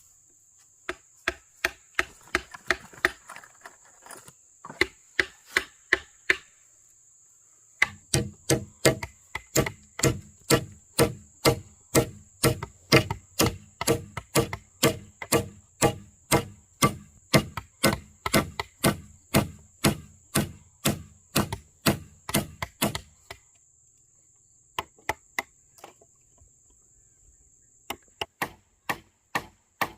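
Wood being chopped: runs of sharp, even strokes at about two to three a second, with short pauses between runs. A steady high insect drone sits underneath.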